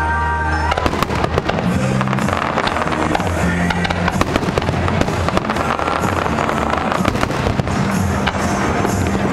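Fireworks display: a dense run of bangs and pops from bursting aerial shells, over loud music with sustained bass notes.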